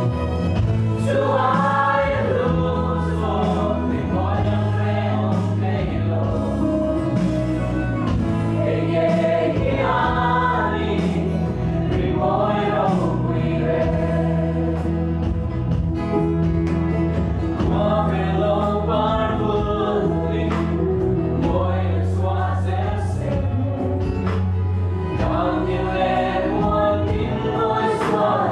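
Worship music: voices singing a song together over instrumental accompaniment, with steady low notes underneath.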